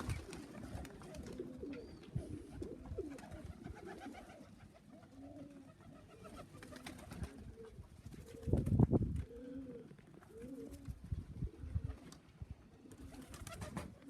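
Domestic racing pigeons in the loft cooing, many short low coos repeating one after another, with a brief louder rushing burst about two-thirds of the way through.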